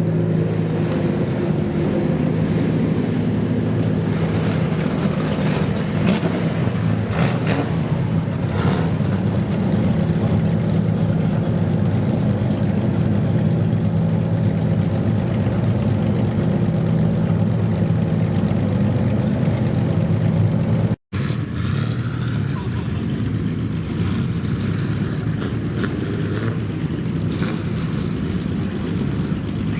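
Car engine of a customised kaido racer running steadily, cutting out for an instant about two-thirds of the way through.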